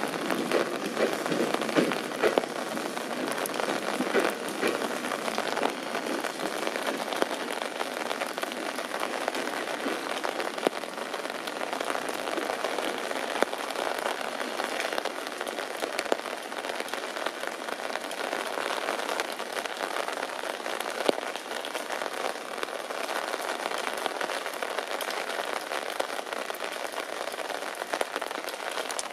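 Steady rain falling, with many separate drop ticks striking an umbrella held over the microphone.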